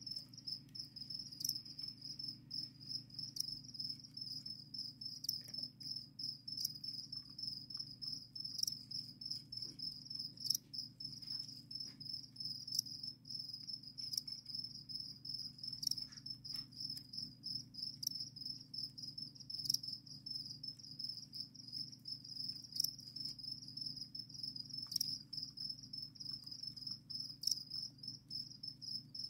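Captive crickets chirping steadily in a rapid pulsing trill, with occasional faint clicks and a low steady hum underneath.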